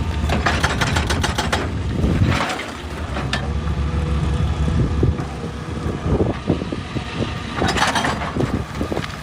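Excavator's diesel engine running, with repeated sharp knocks and clatter, in clusters near the start and again near the end.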